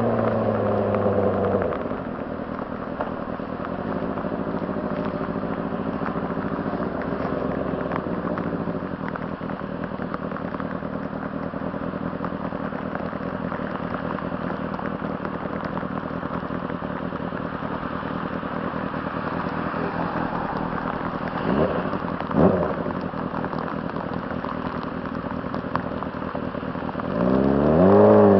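A 2006 Honda CBR600RR's inline-four engine drops off revs in the first couple of seconds, then runs low and steady for a long stretch. Two quick throttle blips come about three-quarters through, and near the end the engine revs up hard again.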